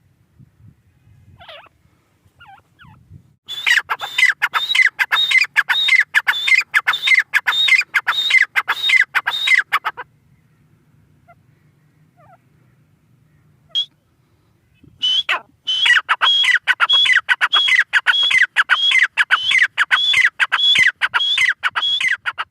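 Grey francolin calling: two long runs of loud, rapidly repeated sharp notes, about three a second, separated by a pause of several seconds, with a few faint calls before the first run.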